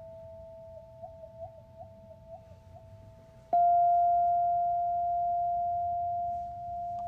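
A singing bowl ringing in a steady pure tone, with small regular blips as the mallet circles the rim. About three and a half seconds in, the bowl is struck and rings out loud, then slowly fades.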